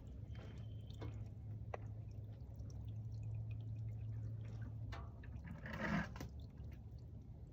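The last of the engine oil dripping and trickling into a drain pan as it finishes draining, in scattered small drips, over a low steady hum that fades about five seconds in; a brief louder rustle comes about six seconds in.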